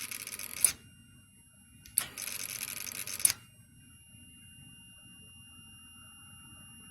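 Suzuki Boulevard C90 V-twin being cranked on its electric starter in two short bursts of about a second each, a sharp click at the start and end of each, the engine not firing: a no-start.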